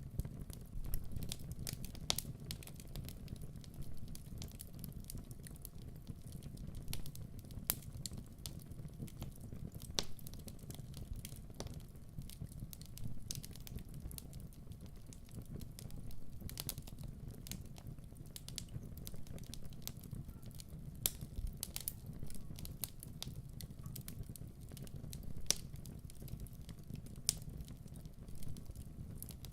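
Wood fire burning in a fireplace: a steady low rumble of flames with irregular sharp pops and snaps of crackling wood.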